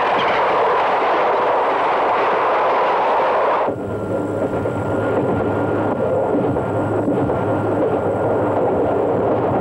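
Electric train running past at speed, a loud steady rush of rail and running noise. A little under four seconds in it cuts abruptly to a somewhat quieter, steadier train running sound with a low hum underneath.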